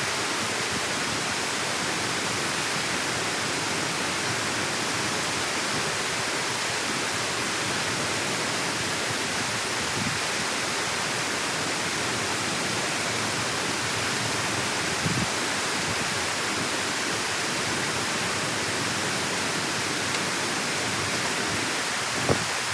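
Steady rushing of water pouring through a dam or canal channel, an even hiss, with a couple of faint knocks.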